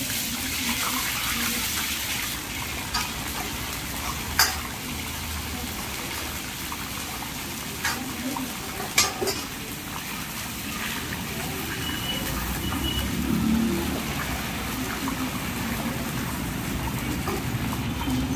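Battered pieces deep-frying in hot oil in a large wok, a steady sizzle, with a few sharp metal clinks of the ladle against the wok.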